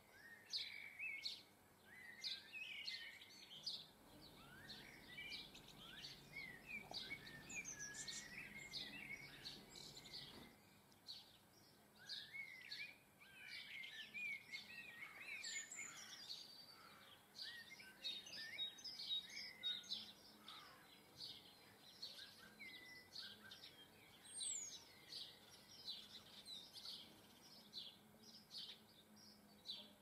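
Garden birds chirping and twittering, many short calls overlapping, with a low background rumble for the first ten seconds or so.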